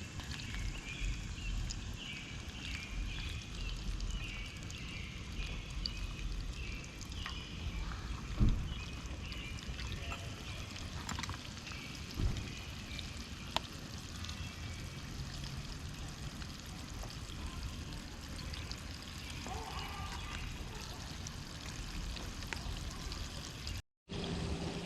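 Flour-coated chicken pieces frying in a pot of hot oil: a steady sizzle with scattered sharp pops.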